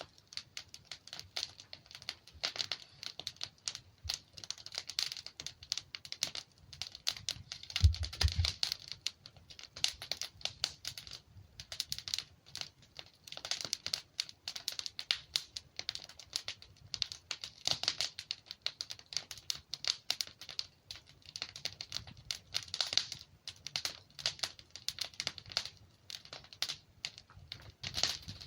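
Wood fire in a fireplace crackling and popping, with dense irregular snaps of burning logs. A single low thump comes about eight seconds in.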